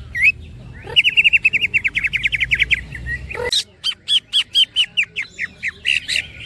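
Cucak ijo (green leafbird) singing: a fast trill of about fifteen quick rising notes, then after a short pause a slower run of separate chirps, about five a second.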